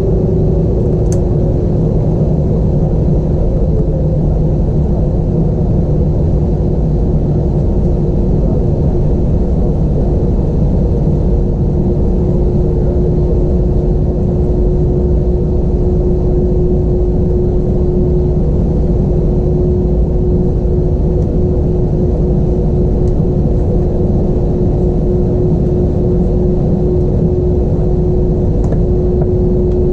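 Steady cabin noise inside an Airbus A320 on the ground: a low rumble with a constant hum running through it and a few faint ticks.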